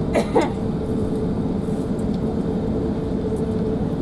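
Steady cabin noise inside an Airbus A380 on the ground after landing, with a constant mid-pitched hum. A short voice sound cuts in briefly at the very start.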